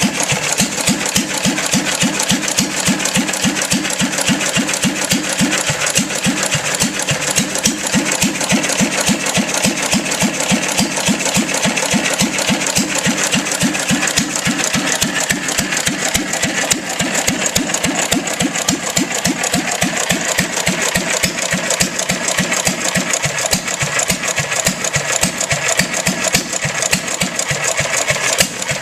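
1 1/2 HP International Harvester Model M single-cylinder gas engine running steadily under its throttle governor. It fires with an even, unbroken rhythm, with no hit-and-miss gaps. It runs on fuel poured straight into the carburettor because the fuel pump plunger is missing.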